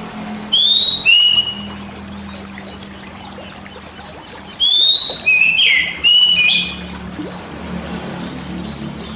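Oriental magpie-robin (kacer) song: two bursts of loud, clear whistled notes, one about half a second in and a longer phrase around five to six and a half seconds, over a steady low hum.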